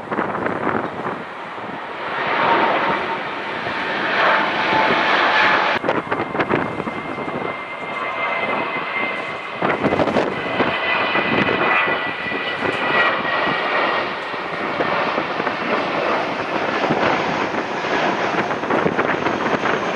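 Large jet airliner's engines running loud as it passes: a broad rush with a faint high whine.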